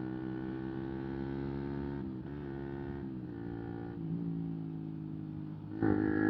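125 cc single-cylinder motorcycle engine running under way. Its note holds fairly steady, changes about two seconds in and again about four seconds in, then jumps up suddenly and louder near the end.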